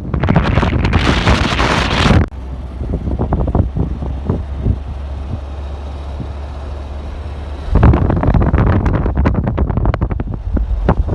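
Wind buffeting the microphone in heavy gusts. It eases for several seconds in the middle, leaving a steady low rumble, then gusts hard again near the end.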